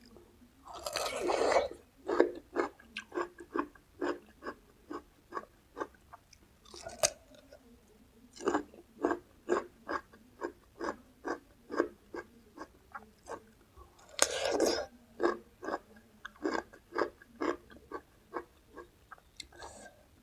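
A person biting into crunchy food close to the microphone, three loud crunching bites (about a second in, about seven seconds in and about fourteen seconds in), each followed by steady chewing at about two chews a second.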